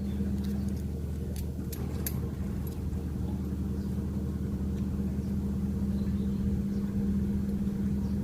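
A steady low mechanical hum, like an idling engine, runs throughout, with a few light metallic clicks about one to two seconds in as small faucet valve parts are handled.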